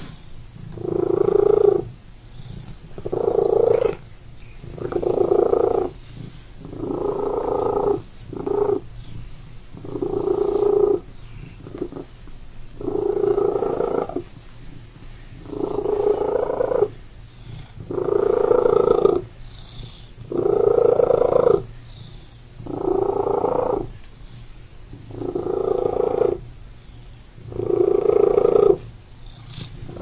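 Cat purring, with a steady low rumble that swells louder about every two seconds in time with its breathing.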